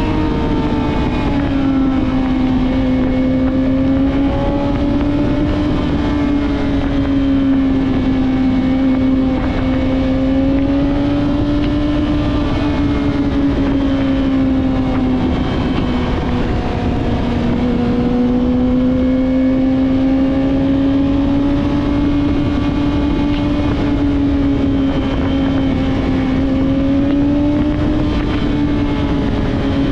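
Yamaha R6's inline-four engine through a Two Brothers full-system exhaust, running steadily under way, its pitch drifting gently up and down with small throttle changes, over a constant rush of wind and road noise.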